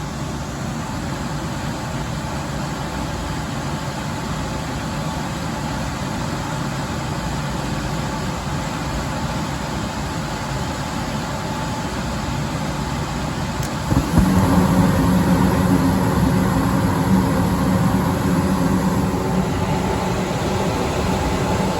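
Gas furnace running with a steady motor hum during a maintenance test firing. About fourteen seconds in there is a click and the sound steps up to a louder, fuller hum as the furnace moves to its next stage of operation.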